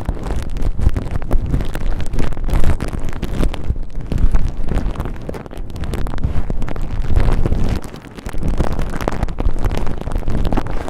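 Cotton ball rubbed and squished roughly against the microphone: loud scratchy rustling over a deep rumble, easing off briefly about eight seconds in.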